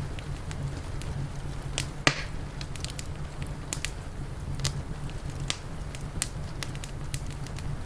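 Wood fire crackling, with irregular sharp pops (the loudest about two seconds in) over a steady low rumble.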